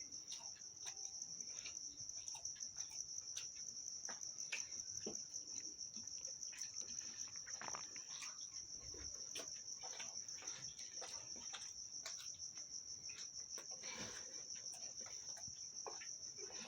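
Steady high-pitched trill of crickets, with irregular short clicks and smacks of someone chewing food.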